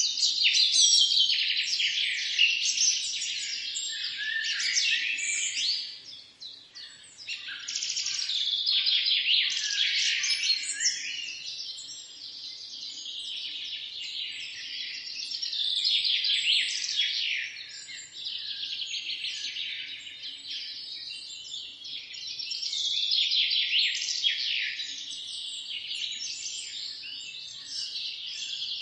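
Many songbirds chirping and singing at once, a dense overlapping chorus of rapid high chirps and trills that thins briefly about six seconds in.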